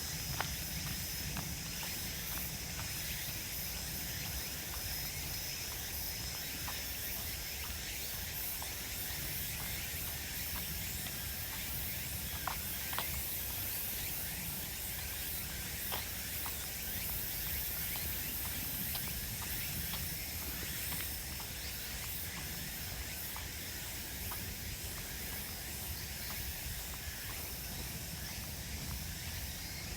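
Steady chorus of insects in woodland, a constant high shrill hiss with a held high note, and a few light footsteps on the path.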